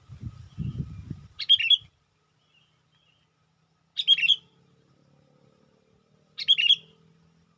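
Sooty-headed bulbul (kutilang) lure calls: three short chirping phrases, about two and a half seconds apart. A low rumbling noise runs under the first phrase and dies away by about two seconds in.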